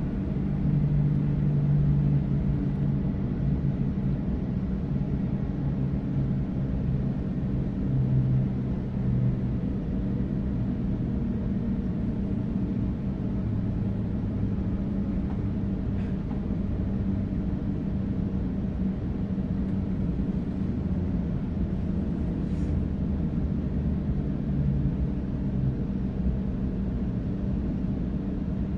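Inside the carriage of a Sydney Trains Waratah electric train: a steady low rumble of the train running on the track, with a low hum that shifts in pitch now and then.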